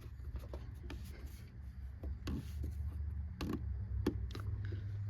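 Handling noises as the oil filler cap goes back onto the 5.7L Hemi engine: several light clicks and rubs spaced about a second apart over a low steady hum.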